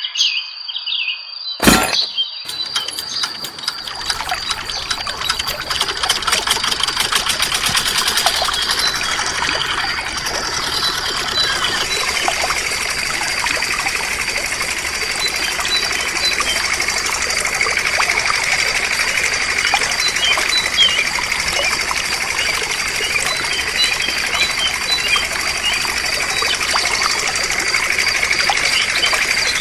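Steady rush of water pouring from a mini water pump, with a thin, steady, high whine over it and birds chirping now and then.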